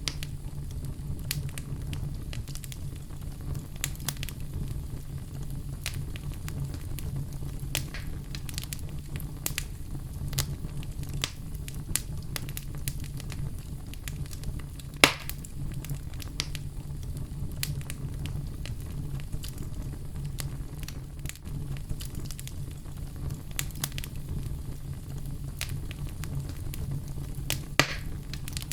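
Oak logs burning in a fireplace: a steady low rumble of flames under frequent crackles, with two sharper pops, one about halfway through and one near the end.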